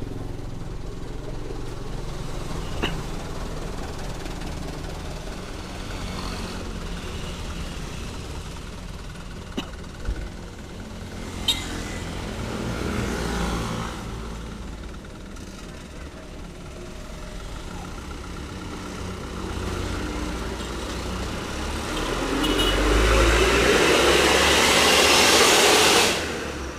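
Motor vehicle engine and road noise heard while riding in traffic, running steadily. A loud rushing noise builds over the last few seconds and then cuts off suddenly.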